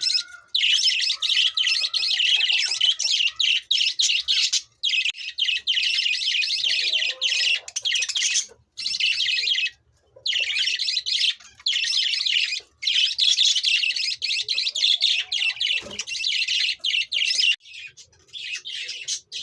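Budgerigars chirping and warbling in a dense, fast chatter, broken by a few short pauses and thinning out near the end.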